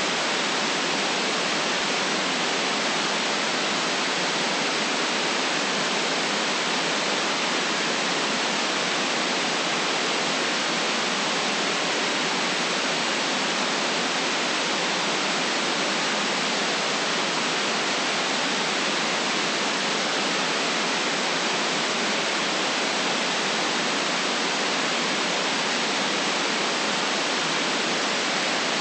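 Steady white noise: an even, unchanging hiss with no rumble below and no top end, and no other sounds in it.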